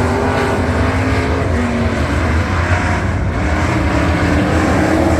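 Engines of several dirt-track race trucks running together in a heat race, their overlapping engine notes rising and falling over a steady low rumble.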